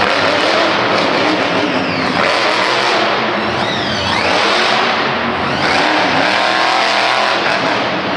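Monster truck engine revving hard, its pitch climbing and dropping several times as the truck runs the track.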